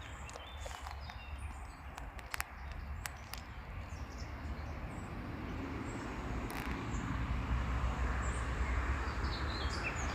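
Small birds chirping now and then over a low steady rumble and a hiss that grows louder in the second half, with a few faint clicks.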